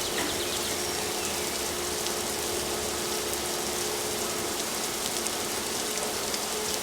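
Water spray pattering steadily on a car in a car wash, with a faint steady hum underneath.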